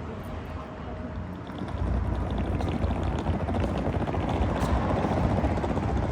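Steady rumble and road noise inside a moving vehicle, which grows louder about two seconds in and then holds.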